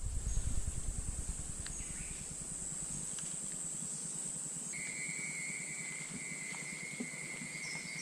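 Night insect chorus: a steady high-pitched trill, joined about five seconds in by a second insect's steady, lower-pitched call. A low rumble sits under the first few seconds.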